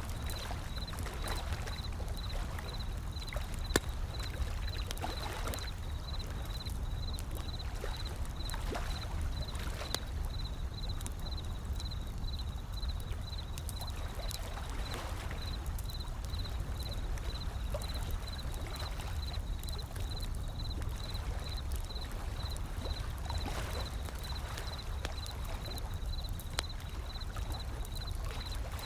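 Wood fire crackling with scattered sharp pops, one louder pop about four seconds in, over gentle ocean waves washing in every few seconds and a steady low rumble. A faint, evenly pulsing high tone runs underneath.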